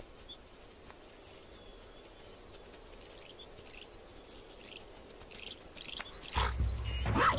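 Quiet savanna ambience with a bird giving a short curved chirp every few seconds. Near the end comes a louder animal call over a low rumble.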